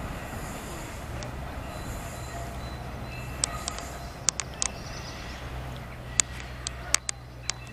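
A long freight train of hopper wagons rolling past with a steady low rumble, joined by scattered sharp clicks from about halfway through.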